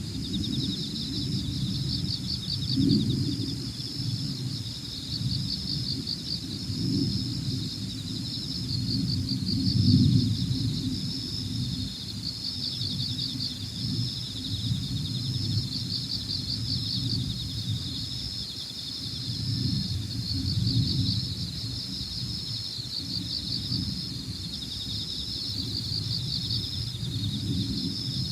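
A steady chorus of insects chirping in fast, evenly pulsing trills, with wind rumbling low in gusts that swell and fade, the strongest gust about ten seconds in.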